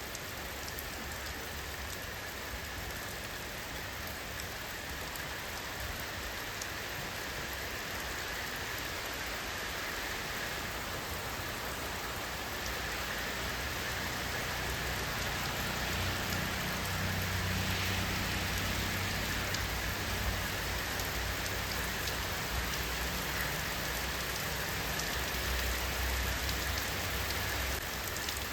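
Steady rain falling, a dense even hiss of drops on surfaces. A low rumble swells in about halfway through and carries on underneath.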